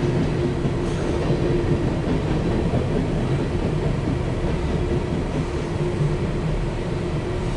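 Empty coal train's cars rolling past, with a steady rumble and clatter of wheels on the rails.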